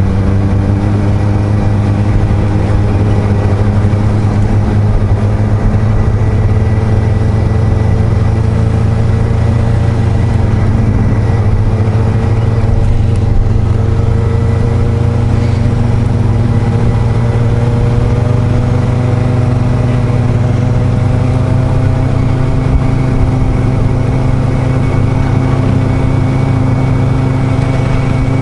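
Motorcycle engine, likely the Suzuki GSR750's inline-four, running under way with a heavy low rumble of road and wind noise; its pitch rises slowly and evenly as the bike gradually gains speed.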